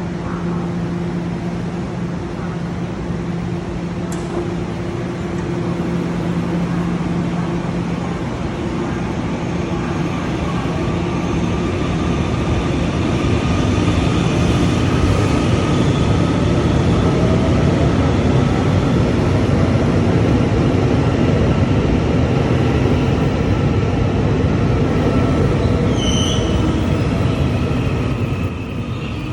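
TEMU2000 Puyuma Express electric multiple unit pulling out of a station, its motors and wheels running with steady tones as the noise builds over the first half while it gathers speed, then holding loud.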